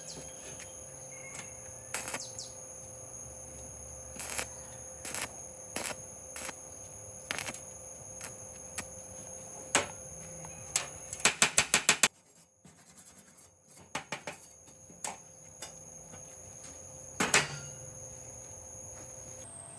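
Irregular sharp clicks and taps, with a quick run of about eight clicks near the middle, over a steady high-pitched background whine.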